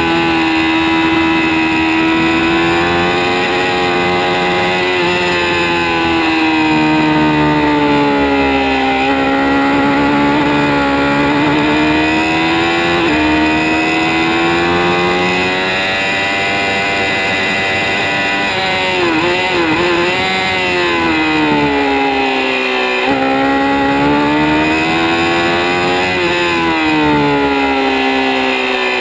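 2006 Kawasaki ZX-6R (636) inline-four engine running hard at high revs around a racetrack. Its pitch climbs and falls again and again as the bike accelerates and slows, with a few sudden steps and a brief wavering dip about two-thirds of the way through.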